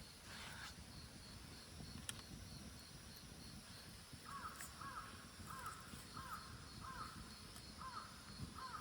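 A crow cawing a quick series of about seven calls, starting about four seconds in.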